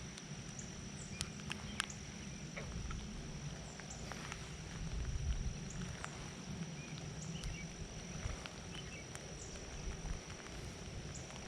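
Rain with scattered drops tapping irregularly on the camera, over a steady high-pitched insect drone and a low rumble.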